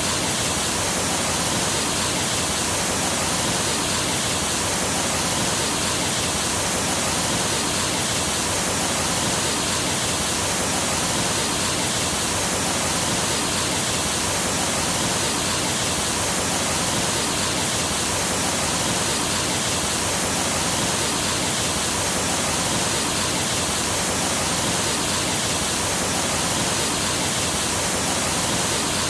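Rushing water of a rainforest stream, a steady even rush without breaks or changes.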